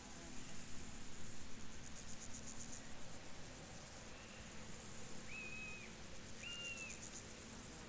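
Field crickets chirping in repeated bursts of rapid high pulses. Two short high whistles come near the end.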